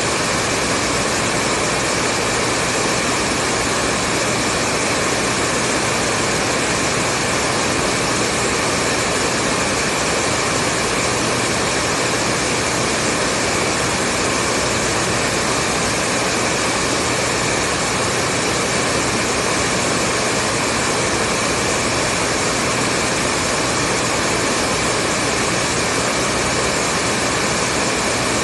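Hair dryer running steadily: an even, unbroken rushing of air with a faint motor whine and a low hum.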